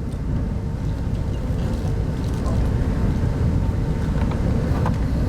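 Steady low rumble of a moving passenger train heard from inside a 25T-series coach, with a few faint clicks over it.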